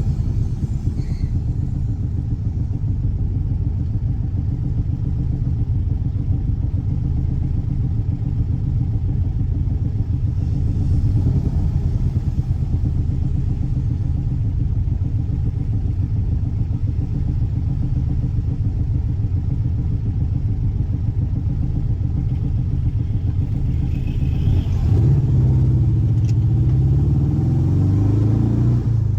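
Air-cooled 1584 cc flat-four boxer engine running steadily with a low, even pulsing. About 25 seconds in it grows louder and a little higher in pitch.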